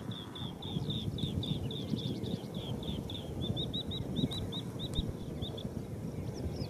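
A bird calling in a rapid series of short, repeated chirps, about four or five a second, quickening in the middle and stopping near the end. Under it runs a steady low rumble, the loudest thing heard.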